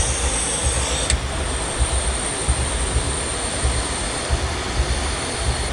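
Steady rushing air from an electric fan blowing onto the microphone, with uneven low buffeting underneath and a thin, steady high-pitched whine above.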